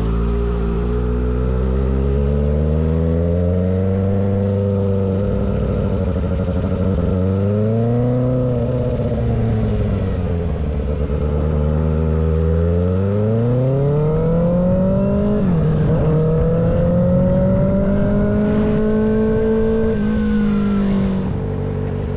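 Kawasaki ZX-6R inline-four with a loud aftermarket exhaust under way: the engine note climbs and falls several times as the rider accelerates and eases off, then holds a high steady note that cuts off near the end.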